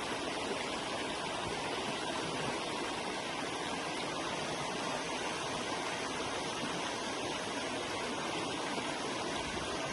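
Forest river flowing: a steady, unbroken rush of running water.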